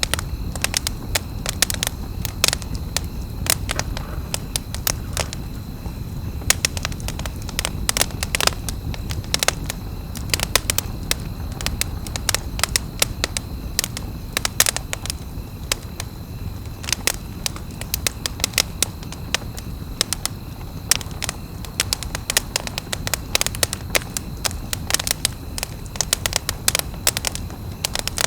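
Campfire crackling, with frequent sharp pops over a steady low rumble. A thin steady high tone runs underneath.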